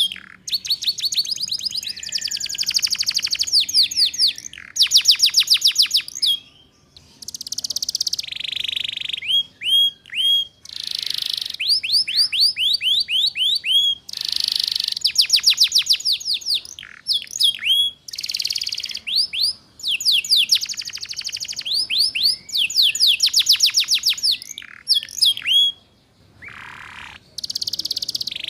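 Domestic canary singing in phrases of fast, rapidly repeated high down-sweeping notes, the trilling 'ngeriwik' style, with buzzy notes in between and short breaks between phrases.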